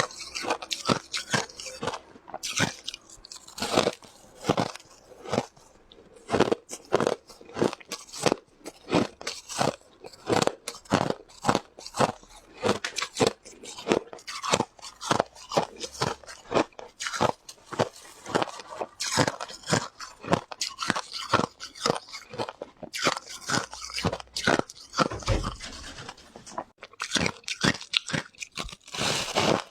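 Ice being bitten and chewed close to the microphone: a rapid, irregular run of sharp crunches with a few short pauses.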